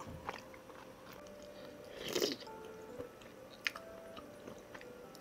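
Close-up mukbang eating sounds: a person biting and chewing spicy tteokbokki, with one louder burst of eating noise about two seconds in and a few small clicks, over faint background music.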